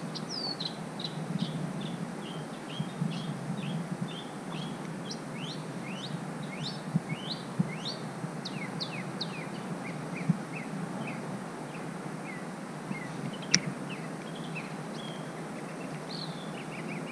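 A bird chirping, a steady run of short downward-sliding chirps, two or three a second, over a low outdoor hum. A few light knocks and one sharp click late on.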